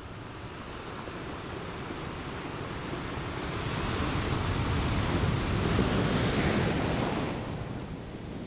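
Sea surf: a wave swells from about three seconds in, washes loudest in the middle and falls away near the end.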